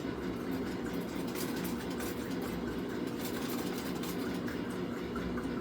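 Foot-powered treadle sewing machine running steadily, its needle mechanism chattering rapidly as the treadle is pumped.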